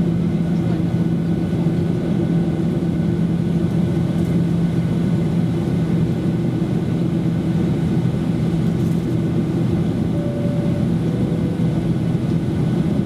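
Boeing 737-800's CFM56-7B jet engines running at taxi power, heard inside the cabin as a steady drone with a strong low hum and a few held tones above it.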